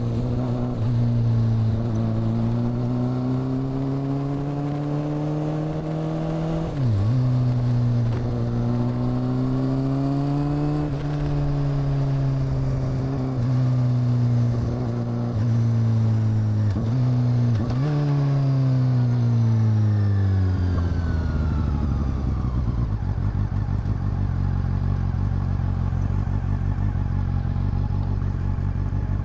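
Honda CB400 Super Four's inline-four engine and exhaust under way, its note rising and falling with brief sharp dips several times as gears change. About twenty seconds in it slows down and settles into a low, steady idle.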